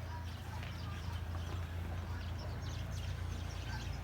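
Outdoor background with a steady low hum and scattered short, high chirps or clicks.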